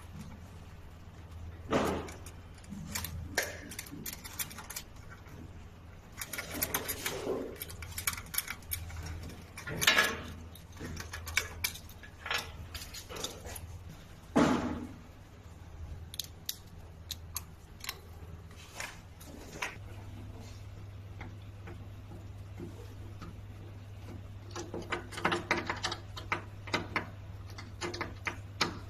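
Irregular metallic clicks, clinks and knocks of hand tools and small metal parts being handled while machine wiring is taken apart, with quick runs of clinking, over a steady low hum.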